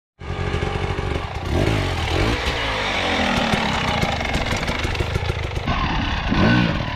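Enduro dirt bike engine running and being ridden, its pitch rising and falling with the throttle, with a couple of rising revs near the end.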